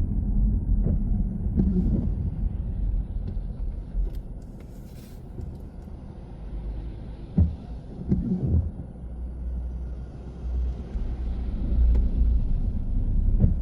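A car driving, heard as a steady low road-and-engine rumble. The rumble eases off in the middle as the car slows, then builds again, with a couple of short thumps a little past halfway.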